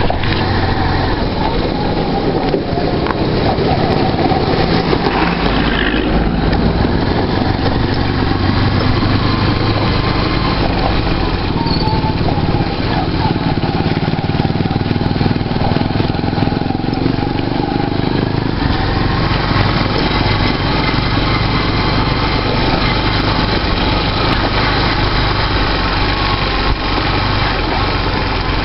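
Motorcycle engine running steadily while under way, with road and wind noise. The engine note changes about two-thirds of the way through.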